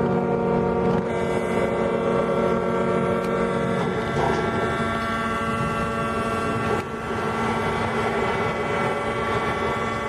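Several ship horns sounding together in long steady blasts, their tones shifting now and then as horns start and stop, as the container ship is launched.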